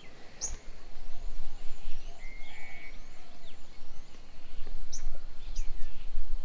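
Several birds calling at a bird table: sharp high chirps and a run of about six repeated arched notes, over a steady low rumble.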